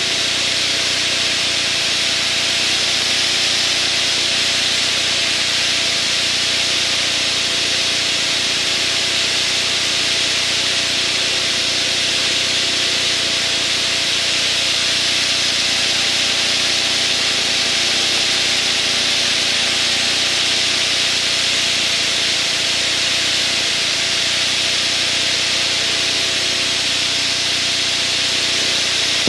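Steady cockpit noise of a Van's RV light aircraft: the engine and propeller drone at a constant setting under a loud, even rush of air, unchanging throughout.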